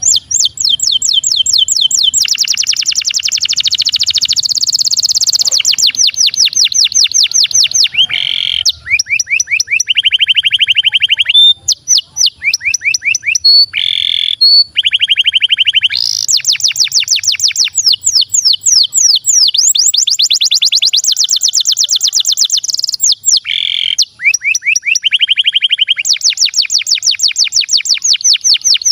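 Canary singing a long song of fast rolls and trills: runs of rapid repeated notes, some rising and some falling, alternating with steady buzzy rolls, with only brief breaks between phrases.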